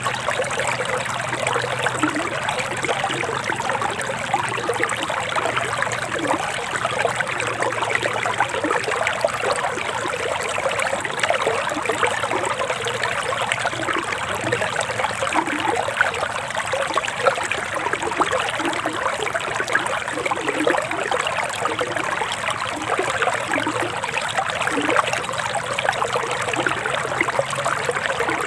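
Forest stream running steadily, a constant rush of water with many small gurgles.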